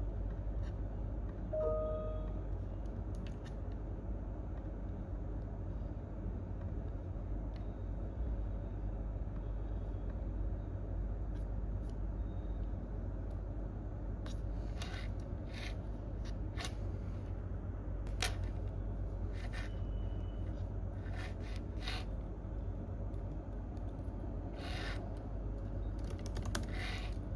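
Computer keyboard keys and mouse clicks, sparse and irregular, coming in short clusters mostly in the second half, over a steady low hum. A brief squeak about two seconds in.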